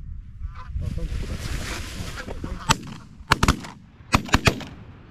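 Geese honking as they come in, then a volley of shotgun blasts from several hunters, about seven shots fired in quick succession starting about two and a half seconds in.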